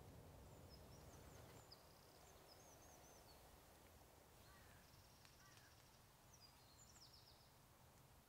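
Near silence in woodland, with faint high chirping from small birds in two short runs and a soft low rumble at the start.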